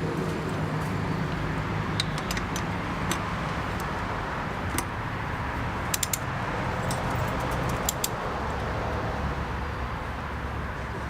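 Scattered sharp metallic clicks and clinks of hand tools on the engine guard mounting bolts, some in quick pairs or clusters, over a steady low rumble of background noise.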